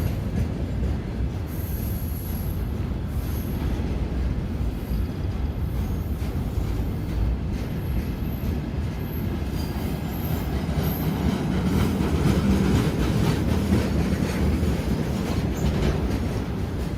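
Train running past on the rails, a continuous rumble with short high-pitched wheel squeals.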